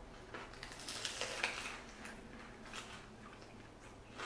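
Faint chewing and mouth sounds of people eating fresh rice-paper spring rolls, with soft scattered clicks and a slightly louder stretch about a second in.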